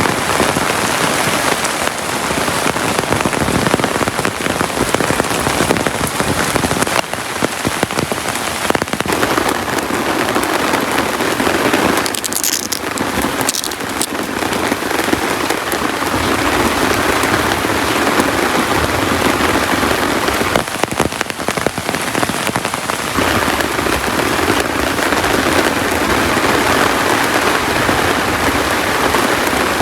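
Heavy rain falling steadily, a dense patter of drops, with a brief cluster of sharper, louder taps about halfway through.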